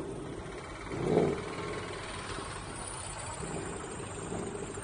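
Car engine idling steadily, with one short louder burst about a second in.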